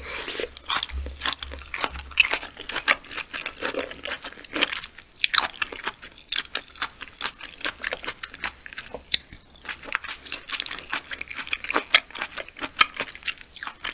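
Close-miked chewing of raw yellowtail (daebangeo) sashimi: a dense run of quick mouth clicks.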